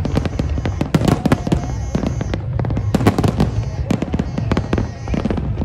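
Aerial fireworks shells bursting in rapid, overlapping bangs over a continuous low rumble.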